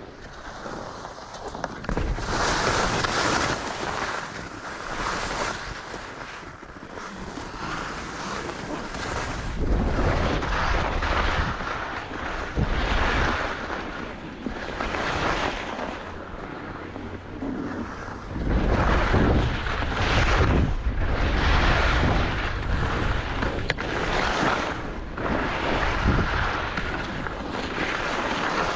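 Skis scraping and hissing over the snow in a run of turns, swelling and fading every second or two, with wind rumbling on the microphone.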